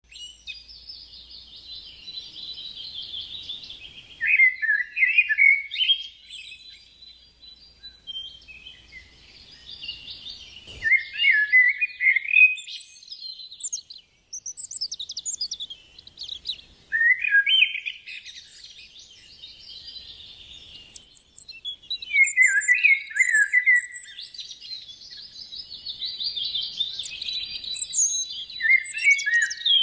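Birdsong: several birds chirping and twittering together, with louder falling chirp phrases every five or six seconds.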